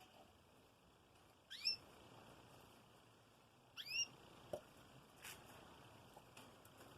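A pet bird giving two short rising chirps, about two seconds apart, against a quiet background.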